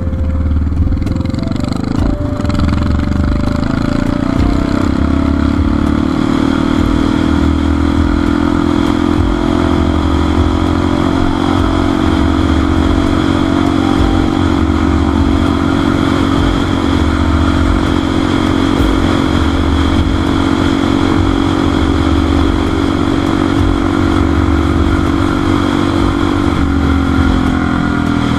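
Motorcycle engine running at a steady speed under way, its pitch held level and then easing down slightly near the end.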